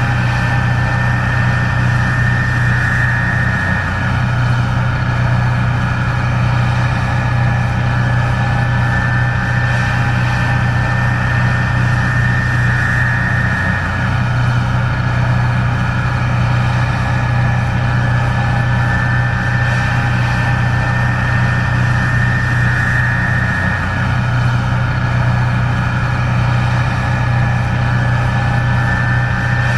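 Case IH 1660 Axial-Flow combine running steadily while harvesting corn: a loud diesel drone with a steady machinery whine over it, swelling and dipping slightly about every ten seconds.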